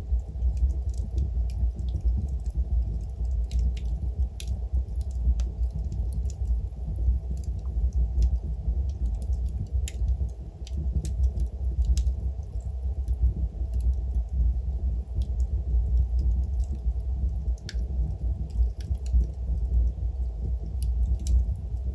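Log fire burning in a fireplace: a steady low rumble with frequent small, sharp crackles and pops scattered irregularly throughout.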